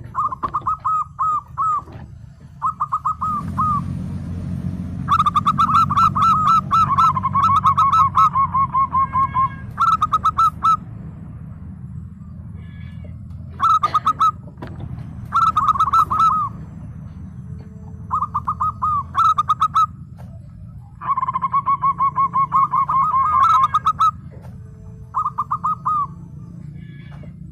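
Zebra dove (perkutut) cooing: series of quick, rapidly repeated coo notes, one after another with short pauses between them. A low steady hum runs underneath from about three seconds in.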